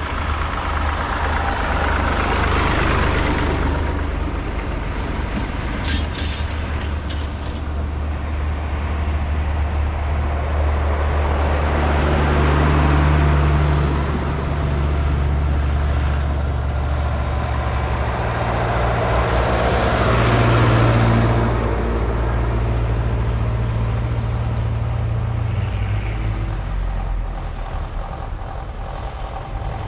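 Vintage tractor engines running as a line of tractors drives past, with a steady low engine drone and three passes that swell louder and fade, and brief rattling clicks a few seconds in.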